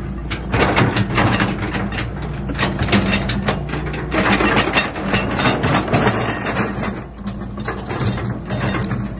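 Excavator engine running steadily, with frequent irregular clanks and knocks over it.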